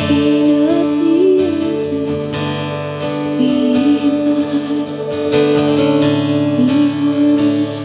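Acoustic guitar strumming slow chords, with a slow melody line moving in steps over the held notes.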